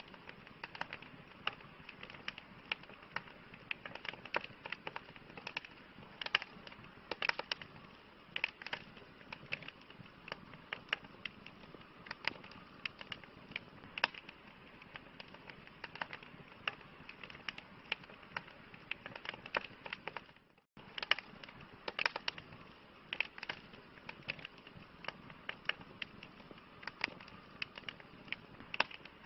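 Campfire crackling: irregular sharp pops and snaps over a soft, steady hiss. The sound cuts out for an instant about two-thirds of the way through.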